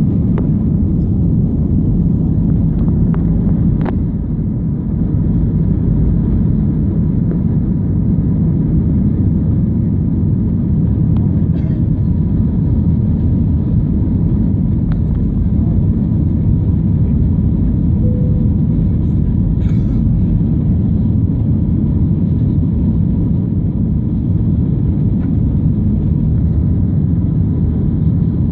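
Cabin noise inside a jet airliner: the steady, even low rumble of the jet engines and airframe, with a few faint small clicks.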